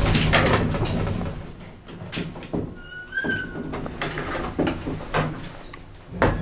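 A door being handled: a run of knocks and thuds, with a short squeak about three seconds in.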